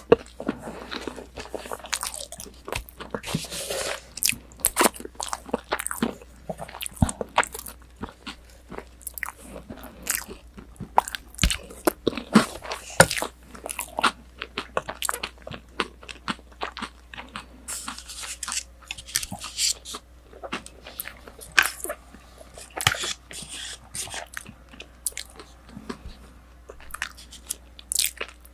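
Close-miked chewing and crunching of crisp breaded, deep-fried pork cutlet (tonkatsu), many sharp irregular crackles of the crust as it is bitten and chewed.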